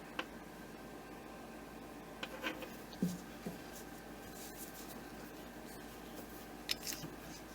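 Spark plug wires and their rubber plug covers being handled: faint rubbing and a few soft clicks, scattered about two to three seconds in and again near the end.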